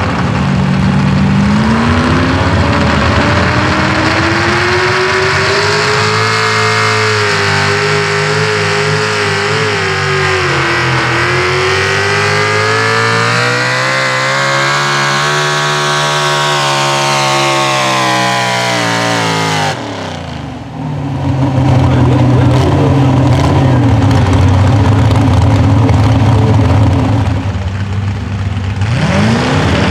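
Pro Stock four-wheel-drive pulling truck's engine held at high revs under load during a pull, its pitch wavering and climbing toward the middle, then falling away and cutting off sharply about twenty seconds in. A lower, steady engine runs afterwards, and near the end an engine revs up again.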